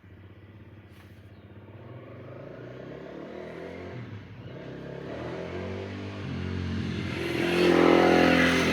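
An engine running with a steady hum that grows gradually louder, loudest near the end.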